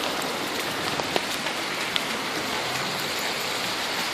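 Steady rain falling just after a hailstorm, a dense even hiss with a few sharp ticks of drops landing close by.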